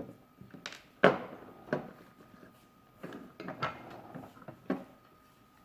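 Plastic toy being handled and turned over: a sharp knock about a second in, then several lighter clicks and knocks.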